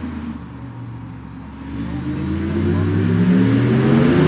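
Audi R8 e-tron's synthesized electric-car driving sound: a stack of tones that holds steady at first, then, from about a second and a half in, rises in pitch and gets louder, as it does when the car accelerates.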